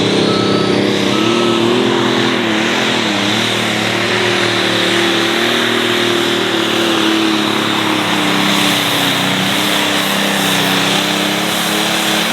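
John Deere 5020 light pro stock pulling tractor's engine running at full throttle during a pull, loud and continuous. Its pitch wavers in the first few seconds, then holds steady and eases slightly lower toward the end.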